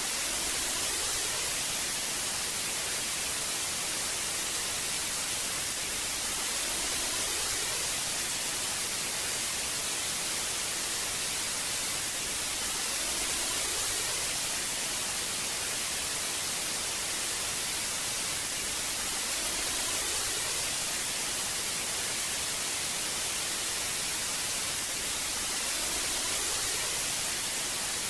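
Old analogue television static: a steady, even hiss of no-signal snow, strongest in the treble. It swells slightly about every six and a half seconds.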